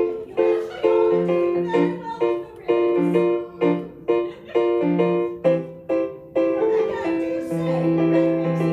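Piano or keyboard playing struck chords in a steady rhythm, about two a second, each fading before the next, settling into a longer held chord near the end.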